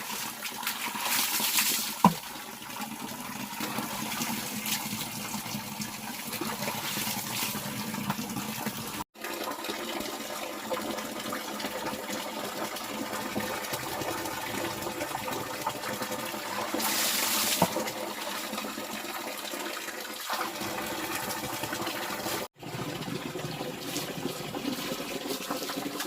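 Water running and splashing as a steady rush, with brighter splashes about a second in and again past the middle, and a single sharp knock about two seconds in.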